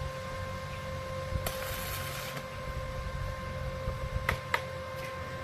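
A short arc-welding burst: about a second of crackling hiss about one and a half seconds in, over a steady electrical hum with a high whine. Two sharp clicks follow about four seconds in.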